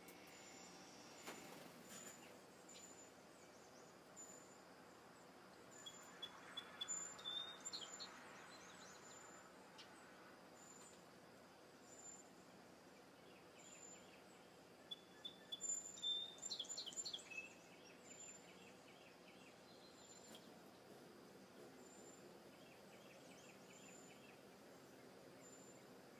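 Faint wild birdsong: a short high note repeats about once a second, and twice a louder song phrase of several quick notes stands out, about six and fifteen seconds in.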